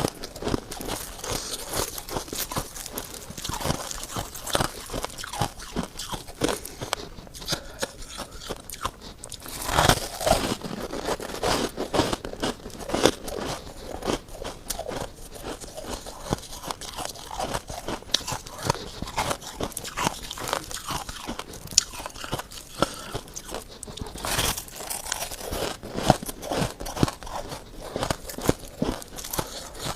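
Freezer frost being bitten and chewed close to the microphone: a dense, irregular run of crisp crunching and crackling, with heavier bites about ten seconds in and again near 25 seconds.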